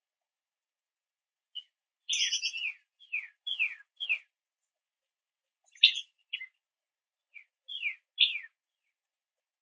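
Bird calls: a dozen or so short chirps, each sliding down in pitch, some in quick runs of three or four and some single, with silent gaps between.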